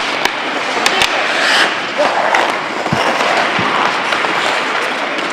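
Ice hockey play: a steady scraping hiss of skates on ice, broken by several sharp clacks of sticks and puck.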